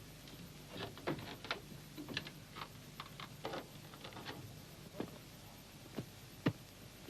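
Irregular sharp clicks and knocks, the strongest one about six and a half seconds in, over a low steady hum on an early sound-film track.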